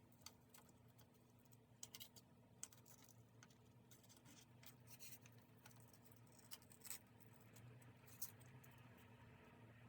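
Faint, scattered light scratches and clicks of paper and stationery being handled for diary decorating, over a low steady hum.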